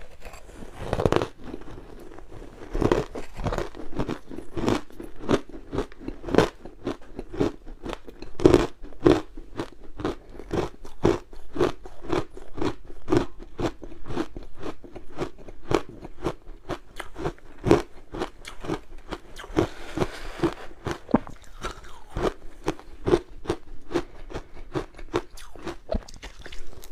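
Frozen matcha ice being bitten and chewed: a steady run of crisp crunches, about two or three a second.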